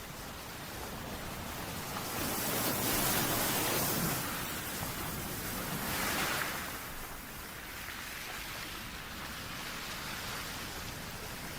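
Sleep-soundtrack noise like ocean surf: a steady rushing hiss that swells and ebbs, swelling about two to four seconds in and again around six seconds.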